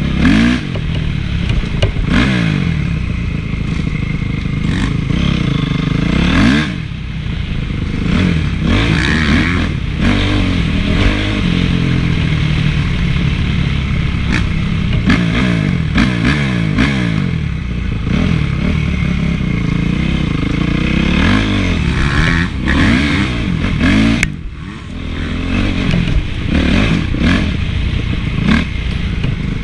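Honda CRF450 motocross bike's single-cylinder four-stroke engine being ridden hard, its pitch rising and falling again and again as the throttle is opened and shut through the gears, with clatter from the bike. The engine eases off briefly about seven seconds in and again near the last few seconds.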